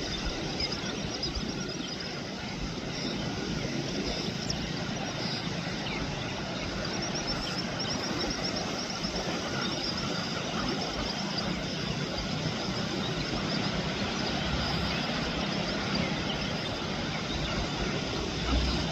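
Steady wash of surf and wind noise on the shore, with faint, short high-pitched bird chirps now and then, most often about halfway through.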